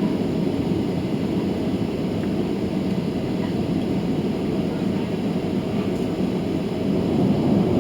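Steady rumble of a Boeing 737-800 heard from inside the passenger cabin, growing louder near the end.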